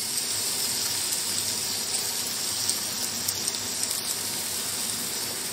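Chicken and vegetables sizzling steadily in a pan over a high flame as boiled shell macaroni is tipped in.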